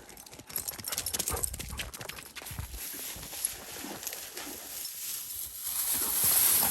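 A dog running through dry, dead cattails: quick crackling and rustling with rapid pattering footfalls, the rustle growing louder near the end.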